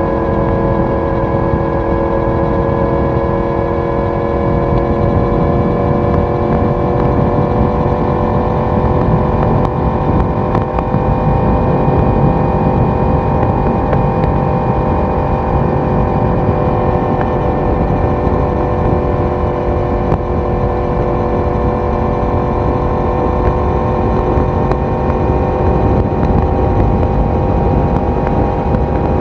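Yamaha YZF-R1 inline-four engine and exhaust cruising at a steady speed, its pitch rising slowly and slightly as it gently gains speed, over a constant rush of road and wind noise.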